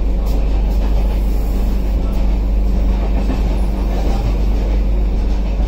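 Steady low rumble and hum of a moving Humsafar Express passenger coach heard from inside its vestibule, while another train passes alongside in the opposite direction.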